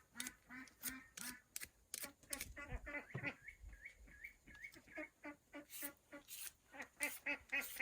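Ducks quacking: a rapid run of short calls, several a second, some low and some higher-pitched.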